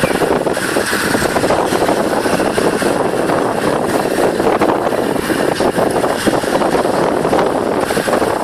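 Wind buffeting the microphone on a moving motorbike, a steady loud rush mixed with the motorbike's engine running.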